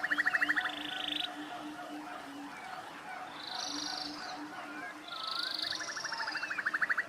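Forest ambience with several birds calling: fast rising trills near the start and again near the end, higher buzzy trills in between, and short slurred whistles. Under the birds runs a low call pulsing about twice a second, like a frog.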